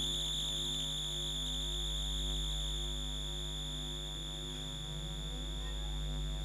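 Free-improvised electronic music: synthesizers holding a steady high tone with fainter higher tones above it, over a low steady drone.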